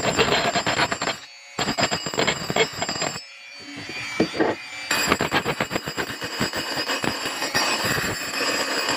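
Rotary tool grinding rust off the edge of a scrap steel sprocket piece, a rough, chattering grind in several stretches broken by two short breaks about a second and three seconds in.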